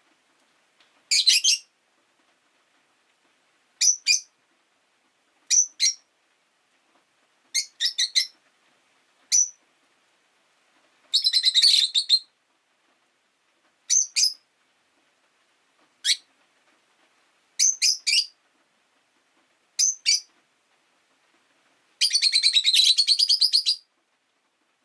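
Rosy-faced lovebirds chirping: short, sharp, high-pitched calls every second or two, with two longer bursts of rapid chattering, about eleven seconds in and near the end.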